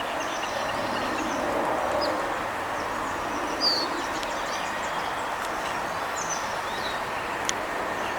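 Steady outdoor background rumble, swelling slightly a couple of seconds in, with scattered short, high bird chirps over it.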